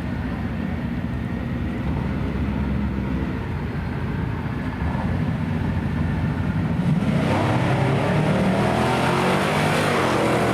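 A drag-racing car's engine running at low revs with a steady low rumble. About seven seconds in it gets louder and climbs in pitch as the car accelerates.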